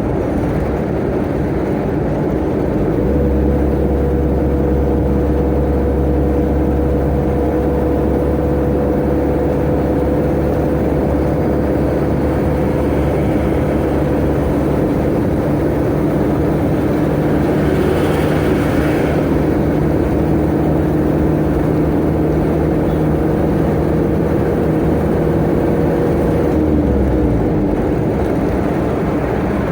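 Tata Ace mini truck running at a steady highway speed: a constant engine drone over road noise. The engine note sets in about three seconds in and fades near the end, with a brief rushing hiss about two-thirds of the way through.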